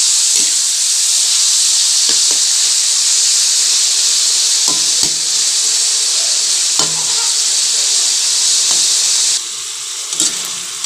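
Chunks of meat sizzling in hot oil in a wok as they fry to brown, with a spatula knocking against the pan a few times as they are stirred. The sizzle drops noticeably near the end.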